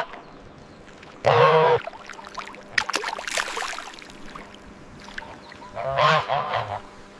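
An animal calls twice: a short loud call about a second in, then a longer call with a wavering pitch near the end, with a few light clicks in between.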